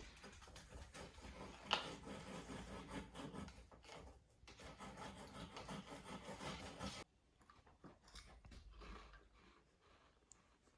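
Faint, irregular open-mouthed chewing, with wet crackles and clicks and one sharper click near the start. It drops off suddenly about seven seconds in, leaving only scattered faint ticks.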